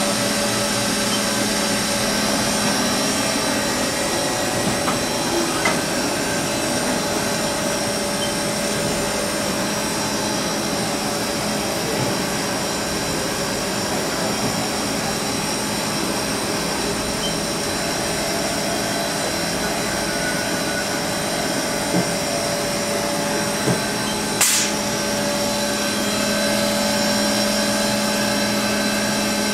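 Haas VF-3SS vertical machining center with its 12,000 rpm spindle running: a steady mechanical hum with several steady tones. A few short clicks come in the last third, the sharpest about three-quarters of the way through.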